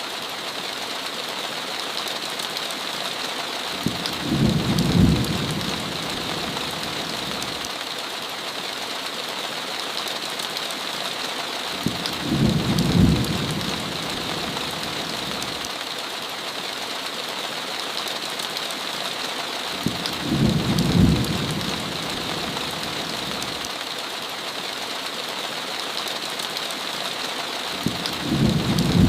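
Heavy rain falling steadily as an even hiss. A short, low thunder rumble rises out of it four times at even spacing, about every eight seconds.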